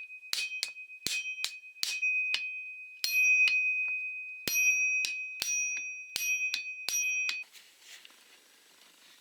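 Metal tool being hammered with sharp ringing strikes, about two to three a second with a short pause midway, to loosen a chainsaw clutch locked by rope in the cylinder; the strikes stop about seven seconds in.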